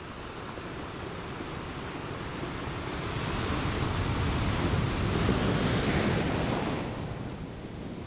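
Ocean waves: a surge of surf builds about three seconds in and ebbs away near the end, over a steady hiss of sea.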